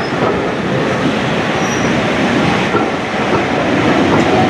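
Passenger carriages running past close by on the adjacent track: a steady, loud rumble and rattle of wheels on the rails.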